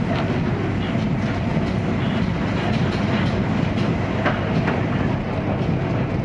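A 485-series electric train running at speed, heard from inside a passenger car: a steady rumble with irregular clicks of the wheels passing over rail joints.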